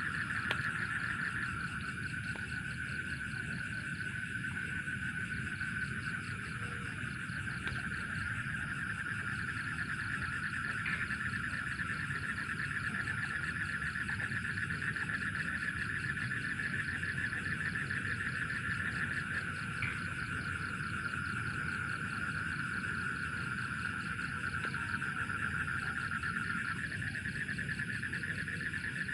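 Night chorus of crickets and other insects, a steady dense trill, with frogs calling underneath.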